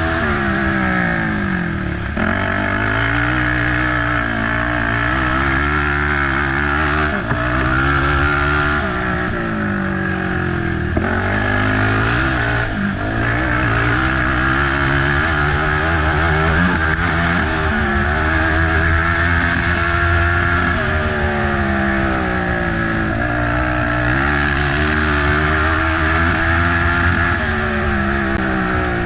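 Race ATV engine revving hard and repeatedly rising and falling in pitch as the throttle is worked and gears change over the terrain.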